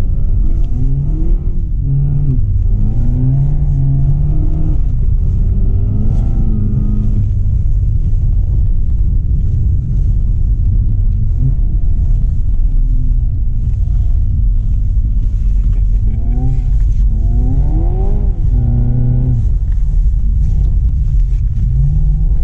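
The Seat Leon Cupra 300's turbocharged 2.0-litre four-cylinder, heard from inside the cabin, revving up and easing off over a steady low drone. The engine pitch climbs and falls in several sweeps, most clearly a couple of seconds in and again about two-thirds of the way through.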